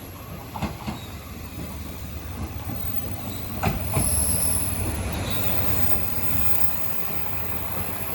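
A train running past on the track, with a steady rumble that swells about four seconds in and a few sharp knocks as the wheels cross rail joints.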